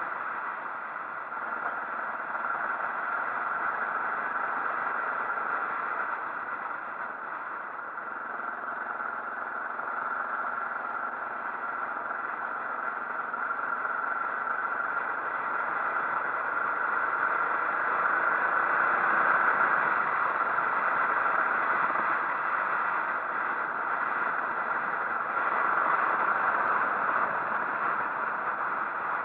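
Motorcycle on the move: a steady rush of wind and engine noise without a break, growing a little louder about two-thirds of the way in and again near the end.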